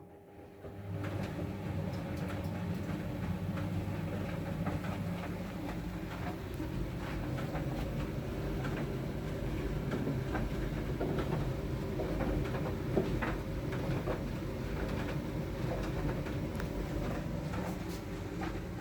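Siemens WM14VG93 front-loading washing machine starts its drum motor about a second in, then runs with a steady low rumble and hum and light rattling clicks as it tumbles a load of bedding at the start of the wash.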